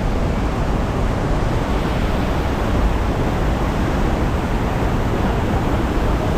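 Steady rush of the Geli Ali Beg waterfall: a large volume of water falling and churning, heard close by as an even, unbroken roar.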